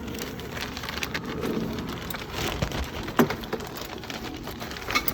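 Hands handling small metal fittings, a banjo bolt and its sealing washers: irregular clicking and crackling rustle, with a sharper click about three seconds in.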